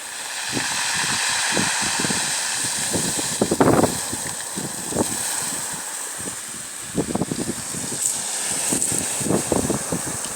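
Water washing and lapping at a bay shore, with wind gusting irregularly against the microphone.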